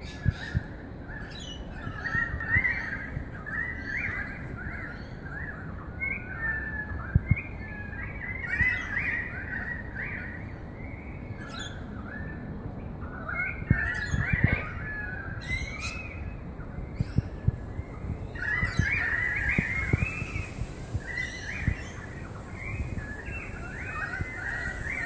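Birds chirping and calling in quick clusters, with a few short sharp clicks over a low background hum.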